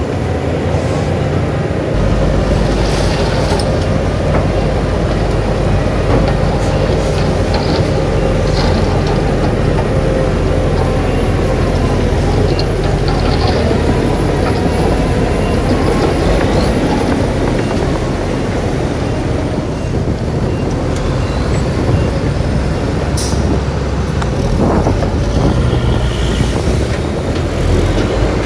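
Heavy diesel engine of a crawler bulldozer running steadily under load, with a few short metallic clanks and squeaks from the machine.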